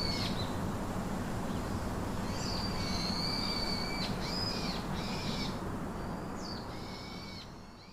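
Bird calling in clear whistled notes, several short ones and a few held for more than a second, over a steady low background hiss. The sound fades out near the end.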